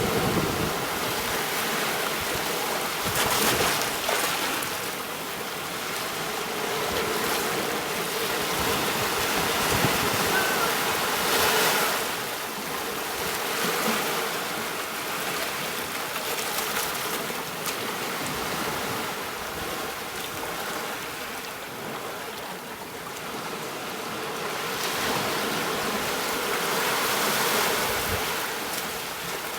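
Gentle ocean waves washing onto a beach, the surf swelling and easing every few seconds.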